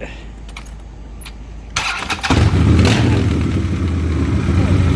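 A custom Harley-Davidson Road Glide's V-twin engine is started. After a few light clicks, the starter cranks briefly a little under two seconds in. The engine catches about half a second later and runs loud and steady.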